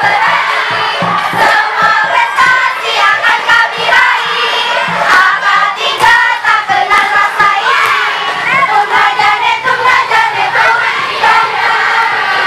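Crowd of young people singing and shouting a chant together, many voices at once, with knocks or claps scattered through it.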